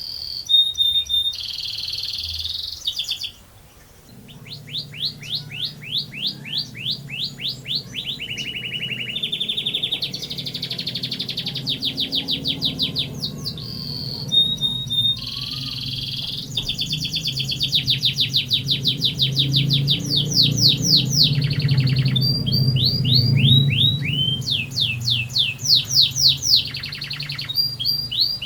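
Domestic canary singing long rolling trills: fast runs of repeated sweeping notes, one phrase straight after another, with a brief pause about four seconds in.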